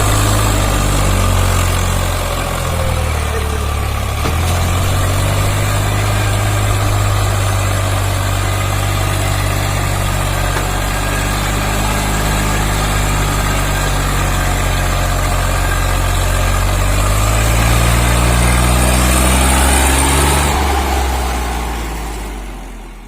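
Diesel tractor engine running under a heavy load. Its speed drops a couple of times early on, climbs again later, and then the sound fades out at the end.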